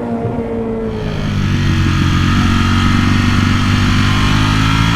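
Ducati Panigale V4R's 998cc V4 engine running steadily under way, its pitch rising slightly, with wind rush. The sound grows louder about a second in.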